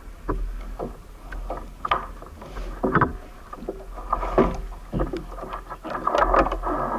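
Irregular knocks and clatter of gear being handled aboard a kayak, with a rougher stretch of rustling noise near the end.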